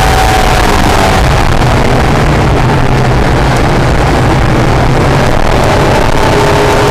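Acura NSX's V6 engine running at speed on a race track, amid loud wind and road noise. Its note falls gently in the first second, then a clearer engine note comes back near the end.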